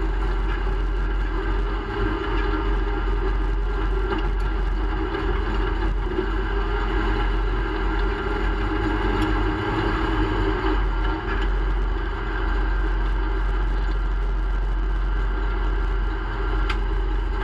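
1965 Plymouth Barracuda race car's engine running steadily at low revs while the car creeps along, heard from inside its stripped cabin as a loud, even rumble.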